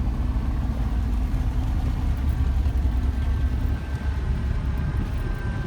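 A vehicle engine running with a steady low rumble, as when driving slowly.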